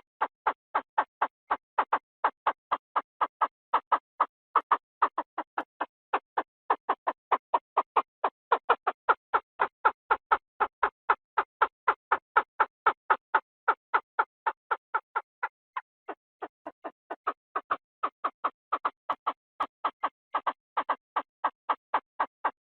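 Recorded calls of a Chinese francolin, played as a decoy call: a steady, unbroken run of sharp notes about four or five a second, briefly weaker about sixteen seconds in.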